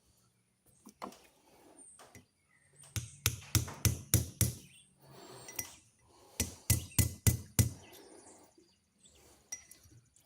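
Small hammer tapping on the pins of an old Western folding hunter pocket knife to peen them over: a few single taps, then two quick runs of about half a dozen light, sharp taps each.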